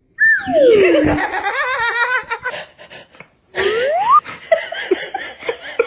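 Laughter, with a long sound sliding down in pitch near the start and another sliding up about halfway through.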